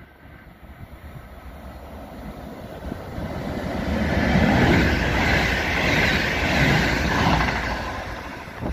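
Electric regional multiple-unit train approaching and passing at speed: a rumble and rush of wheels and air that grows louder from about three seconds in and stays loud as it goes by.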